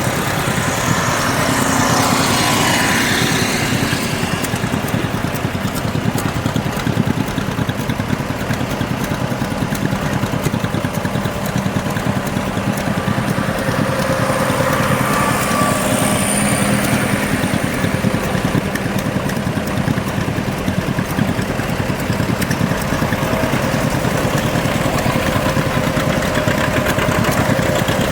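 Tractor engine running steadily at low, even speed, heard close up while the tractor drives along.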